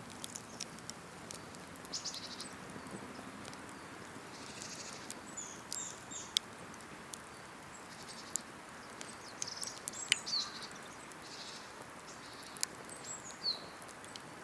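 Cedar-wood campfire crackling, with scattered sharp pops over a soft steady hiss, while small birds chirp and trill repeatedly in short high calls.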